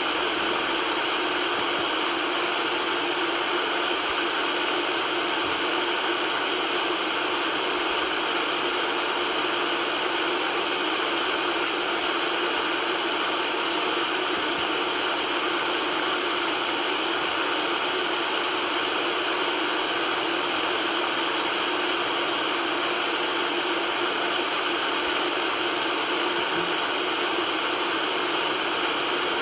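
Steady, unchanging white-noise hiss with almost no deep bass.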